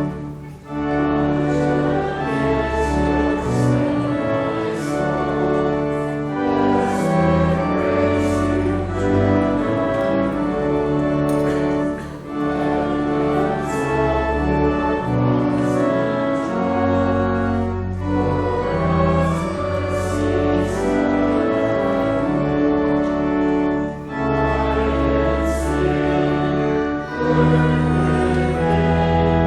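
Church organ playing a slow piece of held chords over long, low bass notes, the chords changing every second or two.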